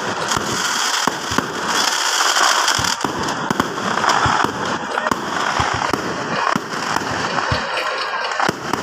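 Aerial fireworks display: a dense, continuous crackling with many scattered bangs throughout.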